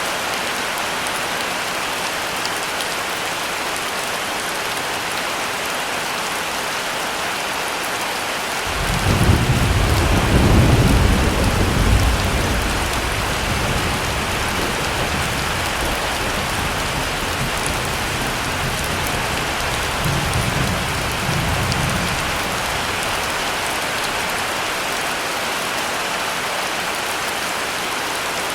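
Heavy rain falling steadily. About nine seconds in, a roll of thunder starts suddenly with a deep rumble, loudest for about three seconds, then rolls on more quietly with a second swell some ten seconds later before fading out.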